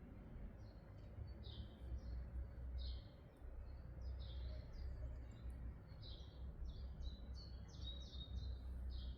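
Small birds chirping, many short high calls at an irregular pace, over a steady low hum.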